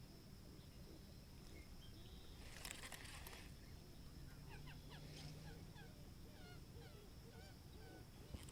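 Faint outdoor quiet with wild birds calling: a run of short, quick chirps in the second half, over a steady faint high tone. There is a brief soft rush of noise about two and a half seconds in.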